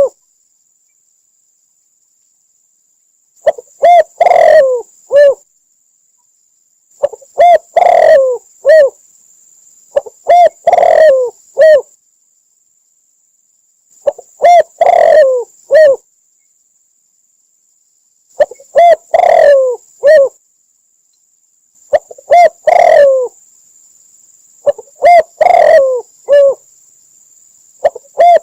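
Spotted dove cooing its song phrase over and over, a short run of several coos repeated about every three to four seconds, starting about three seconds in. It is a lure call recording used to draw doves into a trap.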